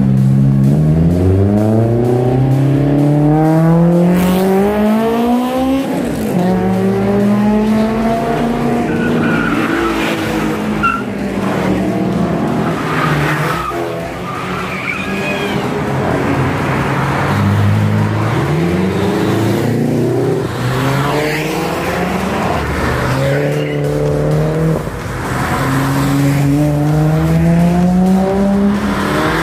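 Car engine revving hard under acceleration: its pitch climbs for several seconds, falls back and climbs again twice more, with tyre squeal partway through.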